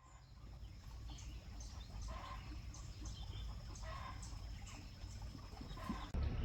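Chickens clucking in short, irregular calls over a low rumble. About six seconds in, the sound cuts abruptly to a louder low rumble.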